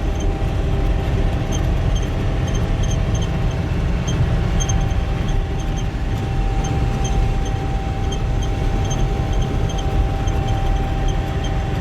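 Swather running steadily while cutting wheat, heard from inside the cab: a dense low machine drone with a steady whine over it and a regular light ticking.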